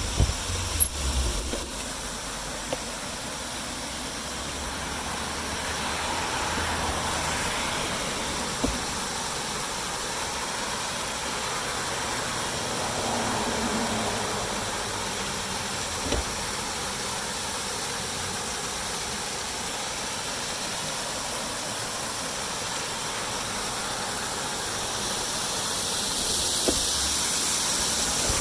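Steady road and wind noise from a bicycle ride, swelling twice and louder near the end, with a few short knocks and rattles.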